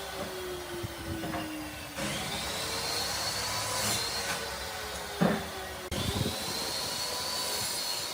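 Electric power tool running, its motor whine climbing and then holding steady twice, with a sharp knock a little past five seconds.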